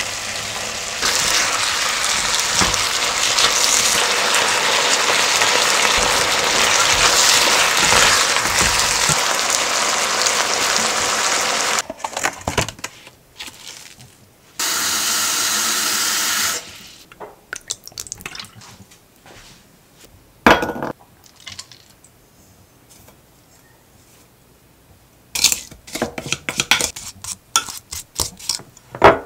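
Rice cakes, beef, carrot and onion sizzling steadily as they are stir-fried in a pan, cutting off suddenly about twelve seconds in. Then a brief two-second rush of noise, followed by scattered clicks and taps of kitchen prep as a plastic meat tray and a glass bowl are handled.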